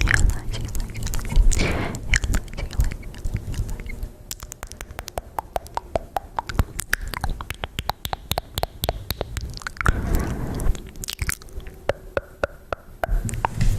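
Close-miked ASMR mouth sounds: quick wet clicks and smacks in a dense run, with a couple of longer soft swishes.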